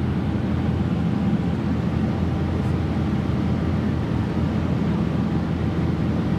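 Steady low drone of a boat's engine running at sea, heard on board.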